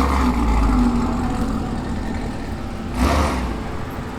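Hyundai Elantra N's turbocharged four-cylinder engine and exhaust while driving, a steady low drone with two brief surges, one at the start and one about three seconds in.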